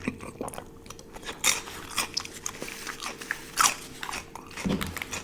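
Close-miked eating: a person chewing food with a mouth full, giving moist clicking and crunchy crackles, with the loudest crunches about one and a half and three and a half seconds in.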